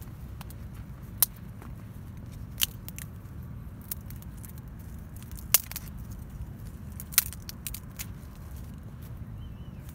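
Campfire wood burning, crackling with irregular sharp pops, a few of them much louder than the rest, over a steady low rumble.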